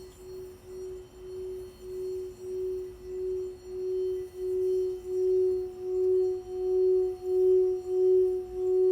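Singing bowl sounding one sustained tone that pulses in a steady wobble about one and a half times a second and grows louder throughout.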